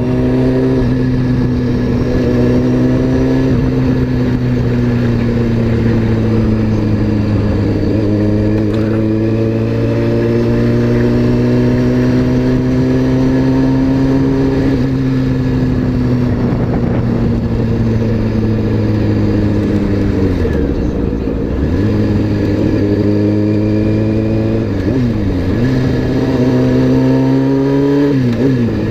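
Honda CBR600 F4i sport bike's inline-four engine running at a steady cruise, its pitch drifting slowly up and down with throttle. About twenty seconds in, and again near the end, the revs dip briefly and climb back, as at a shift or throttle change.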